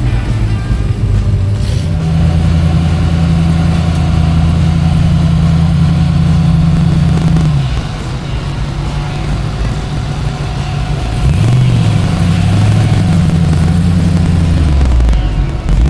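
Truck engine running, its pitch rising and falling a few times as it is revved.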